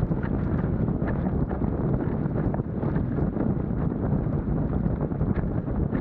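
Wind buffeting the microphone of an Insta360 action camera on a windsurf rig sailing at speed: a steady, dense rush of noise with faint ticks of spray and chop.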